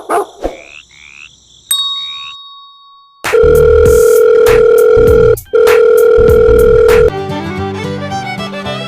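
A loud, steady electronic tone like a telephone dial tone holds for about four seconds, broken by one short gap, after a few short beeps and sliding chirps. It gives way near the end to instrumental music.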